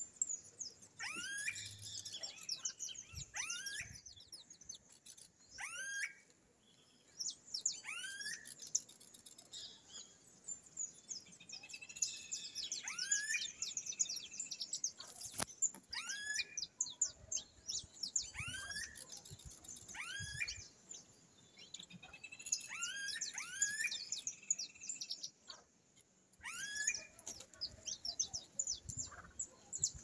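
Birds calling in the trees: many short calls that sweep quickly downward in pitch, repeated every second or so, over a bed of high chirps. A single sharp click comes about halfway through.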